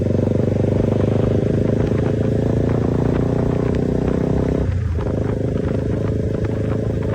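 Motorcycle engine running under way through its newly fitted aftermarket exhaust, a steady engine note that briefly drops out about five seconds in before picking up again.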